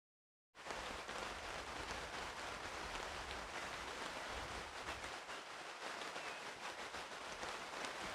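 Steady rain falling, a dense patter of many small drops, starting abruptly about half a second in.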